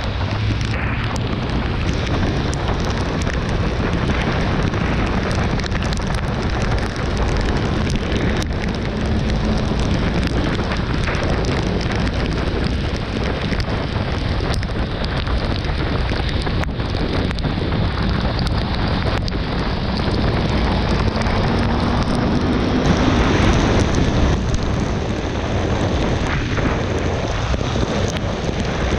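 Wind rushing over the microphone of a motorcycle ridden in the rain, with rain spatter and tyre spray mixed in. The Honda CB650R's inline-four engine is faintly audible underneath, its pitch rising gently about three-quarters of the way through as the rider speeds up.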